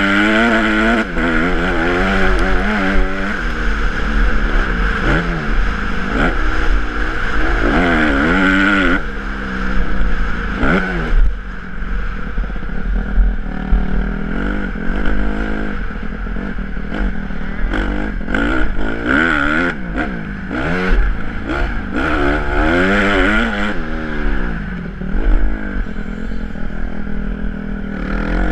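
Honda CRF150R's four-stroke single-cylinder engine revving up and falling back over and over as the dirt bike is ridden, with short knocks and rattles from the bike.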